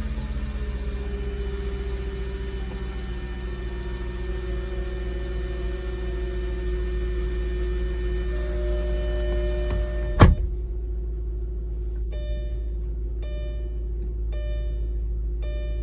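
2004 Audi S4's 4.2-litre V8 idling steadily at its raised cold-start idle. About ten seconds in there is a sharp click, followed by a short beep repeating about once a second.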